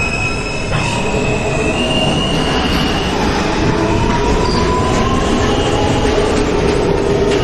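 New York City Subway J train under way between stations: a steady rumble of wheels on rail, with thin whines and wheel squeal above it, some slowly rising in pitch as the train picks up speed.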